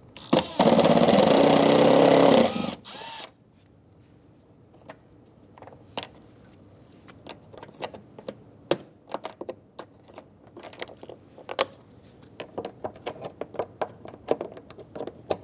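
A cordless power driver whirs for about two seconds as it backs out a Phillips head screw, with a short second burst just after. Light clicks and taps of tools and plastic trim follow.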